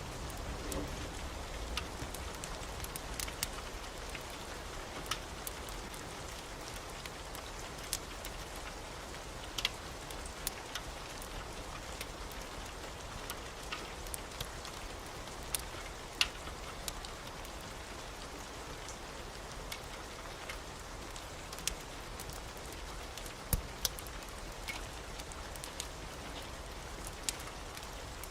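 Steady rain, with scattered sharp clicks and pops throughout.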